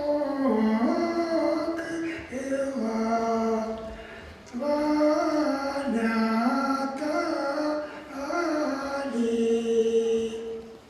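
Singing: a voice holds long notes and glides between them, with a short break about four seconds in.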